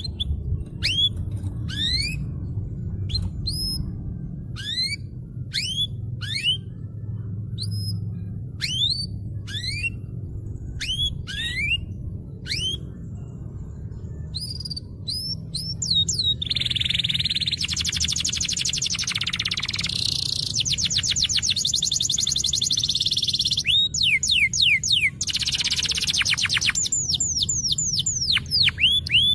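Domestic canary singing: a run of separate rising whistled notes, one or two a second, then from a little past halfway a continuous fast song of rapid trills and rolls.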